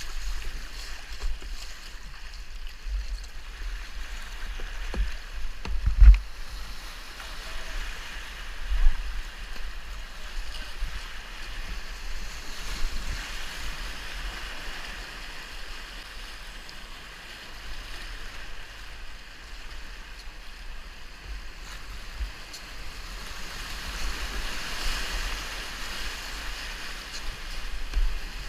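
River water rushing and splashing around a kayak, with a low uneven rumble of wind buffeting the microphone. Two sharp knocks stand out, about six seconds in and again near nine seconds.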